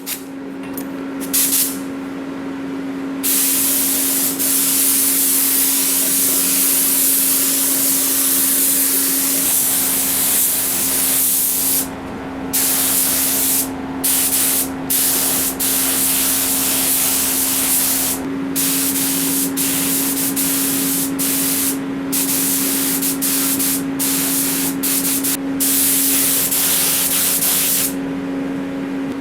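Compressed-air gun hissing in long bursts that stop briefly each time the trigger is released, over a steady machine hum.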